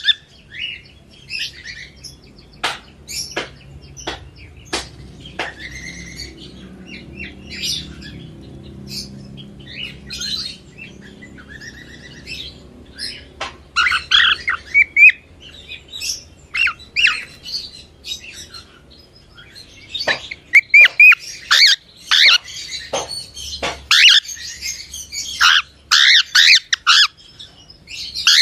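Cockatiel chirping and squawking in short, scattered calls, with sharp click-like notes. The calls are sparse through the middle and come in a busy, loud run over the last third.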